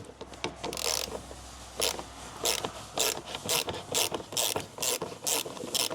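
Ratchet tool clicking in short strokes, about two a second, as fasteners on the air filter box are unscrewed.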